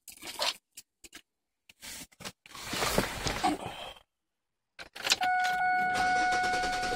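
Scattered clicks and rattles of keys and handling, then about five seconds in the 2003 Oldsmobile Silhouette's 3.4-litre V6 is running steadily at idle, with a steady high tone sounding over it.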